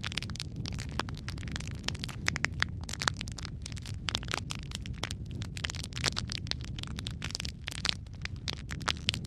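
Wood fire in a fireplace crackling and popping: many sharp, irregular snaps over a steady low rumble of flames.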